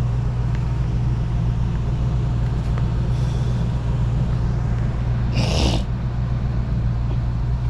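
Car engine idling with a steady low hum, and a brief hiss about five and a half seconds in.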